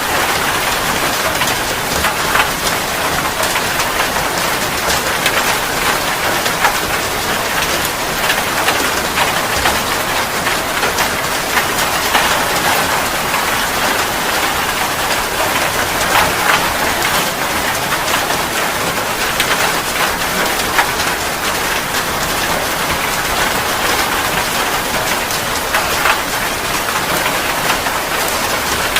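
Steady rain falling: a dense, even hiss with many sharp individual drop hits scattered through it.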